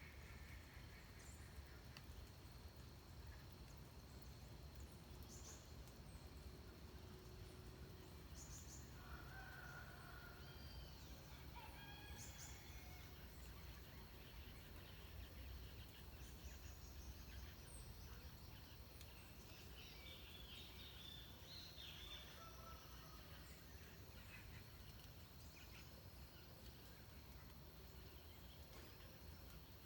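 Faint, scattered wild bird calls: short chirps and whistles, busiest about a third of the way in and again past the middle. Under them run a low steady rumble and a thin, steady high tone.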